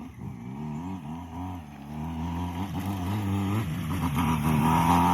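Motorbike engine running under way, its pitch rising and dipping with the throttle, a brief drop about a second and a half in, and growing louder toward the end.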